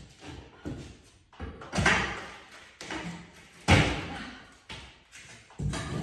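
Heavy knocks and thuds of hand demolition work as wooden trim is pried and pulled off a plaster wall. The loudest knocks fall about two and four seconds in, with a third near the end and lighter taps between.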